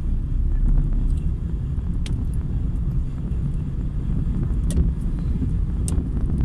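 Car driving along a city street: a steady low rumble of engine and road noise, with a few brief faint ticks.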